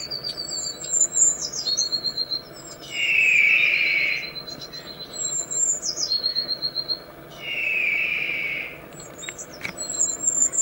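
Bird song: the same phrase repeated three times, about every four and a half seconds. Each phrase is a harsh, hissy note lasting about a second, followed by a rapid high trill and quick high chirps that drop in pitch.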